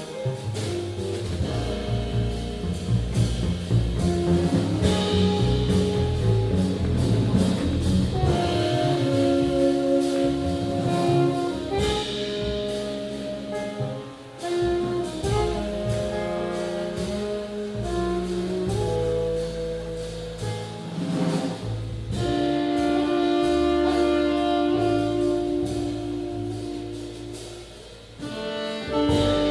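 Jazz band playing live: long held melody notes over a walking low line and drums.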